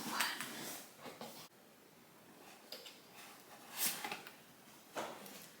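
Faint rustling and scraping of cardboard and paper packaging being handled, in a few short bursts with quiet between.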